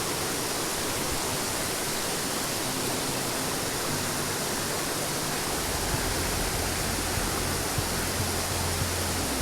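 Steady, even rushing noise, with a low rumble and a few light knocks coming in about halfway through.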